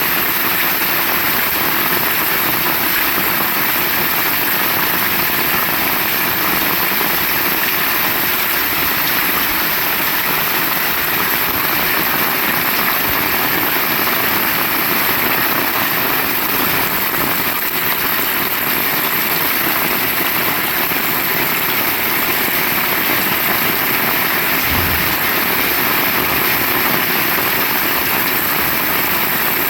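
Heavy rain pouring steadily, a loud, even hiss of falling water, with one brief low bump near the end.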